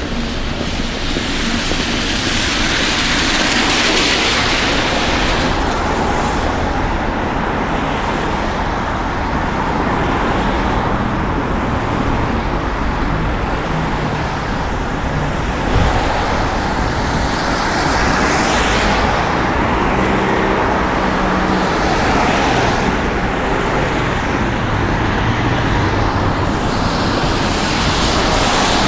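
Road traffic on a wet street: cars passing one after another, their tyre hiss swelling and fading over a steady low rumble. A brief thump sounds about sixteen seconds in.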